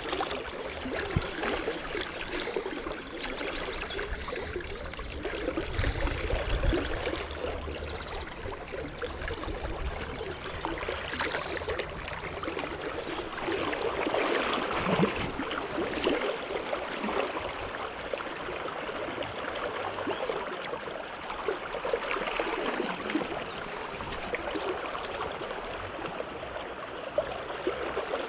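Trout stream running and rippling, a steady flickering rush of water, with a brief low rumble about six seconds in.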